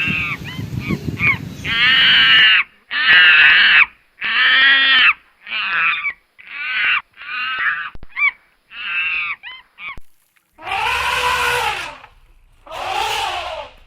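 A run of loud, harsh wild-animal calls, each lasting about half a second to a second with short gaps between them. About ten and a half seconds in they give way to a different, noisier call.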